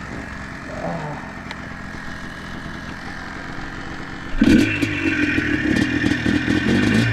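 ATV engine idling, then opening up about four seconds in as the quad pulls away. It runs louder from then on, with rattling knocks over the engine.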